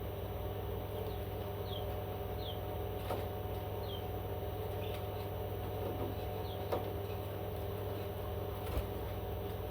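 Short, high chirps from a bird, each falling quickly in pitch, coming singly every second or two. A few soft clicks and a steady low hum run underneath.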